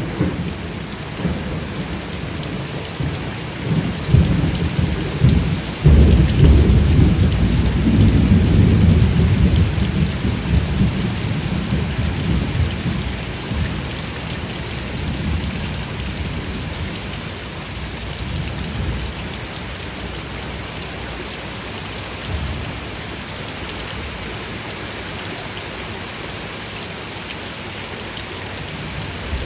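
Steady rain with a long, deep rumble of thunder that swells about six seconds in and slowly dies away, leaving the hiss of rain.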